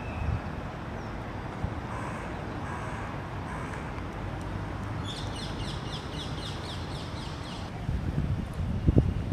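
A bird gives a rapid run of short, high, repeated calls for about three seconds midway, over a steady low rumble of city street noise. Wind gusts buffet the microphone near the end.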